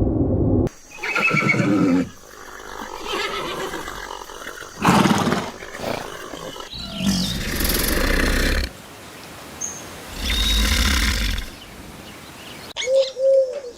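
A run of short, abruptly cut clips of loud animal calls from large farm animals, with neigh-like cries among them. Near the end a pigeon starts cooing in repeated low phrases.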